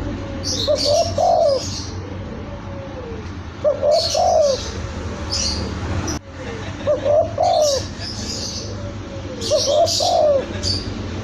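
Young spotted dove (tekukur) cooing: four short phrases, one about every three seconds. High-pitched chirps sound with each phrase.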